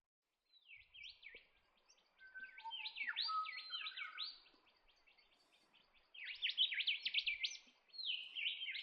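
Black-shouldered kite calling: rapid series of thin, chirping whistles, many sliding down in pitch, coming in bouts with a quieter spell midway.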